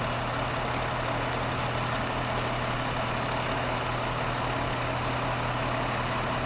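A large engine idling steadily, with a few faint clicks over it.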